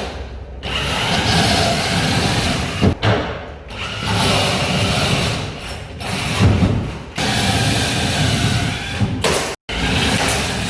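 Power-tool noise from interior carpentry work, heard in several stretches that break off abruptly one after another, with a sharp knock about three seconds in.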